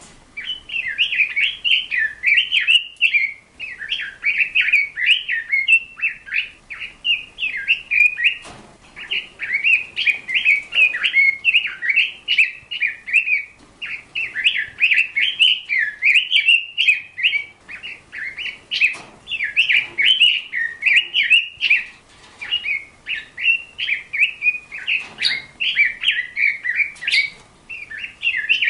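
Small birds chirping and twittering almost without pause in rapid runs of high, warbling notes, with a few faint clicks.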